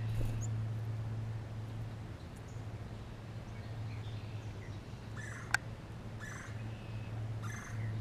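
Three short, harsh bird calls about a second apart in the second half, with a single sharp tick between the first two, over a steady low hum.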